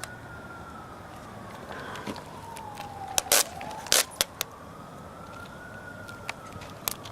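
Faint wailing siren, one tone sliding slowly down and back up in pitch over several seconds, with a few sharp clicks over it.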